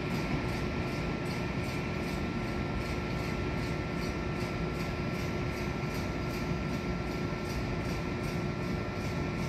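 Electric passenger train hauled by an Alstom E-1400-series locomotive, receding into the distance: a steady low rumble with a constant hum over it.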